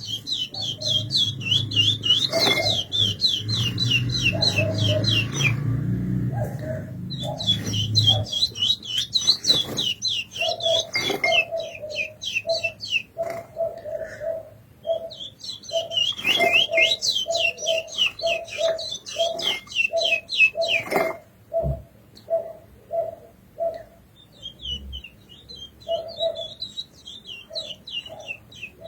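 Curió (chestnut-bellied seed finch) singing in three long phrases of rapid high whistled notes, each a few seconds long, with a quieter phrase near the end. A lower short note repeats about twice a second through the second half.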